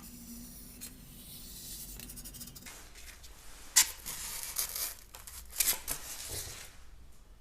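Hand craft work on a foam model airplane, cutting or tearing material: a faint hiss at first, then a sharp click a little under four seconds in and two short spells of scratchy rasping.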